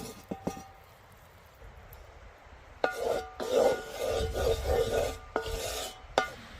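A metal utensil scraping and rubbing against ringing metal cookware in a run of quick strokes, after two light knocks near the start; a sharp clink near the end.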